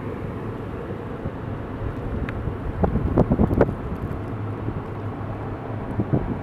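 Nor'easter blizzard wind buffeting the microphone, a steady low rumble, with a brief cluster of sharper sounds about three seconds in.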